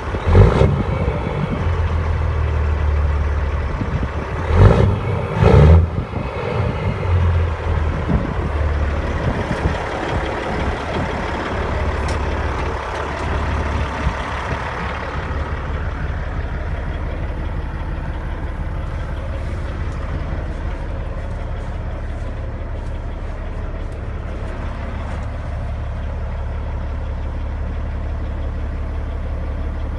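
Caterpillar C-15 inline-six diesel engine of a 600 hp 2004 Peterbilt truck running and settling into a steady idle. A few loud sudden noises come in the first six seconds.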